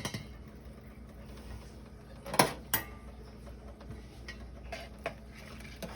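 Kitchen utensil knocking against cookware: one sharp clank about two and a half seconds in, a second lighter one just after, then a few faint taps.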